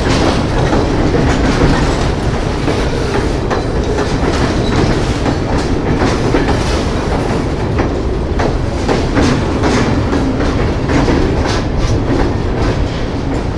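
Freight train rolling past on the adjacent track: a steady rumble of wheels on rail, broken by repeated sharp clacks as the cars' wheels cross rail joints.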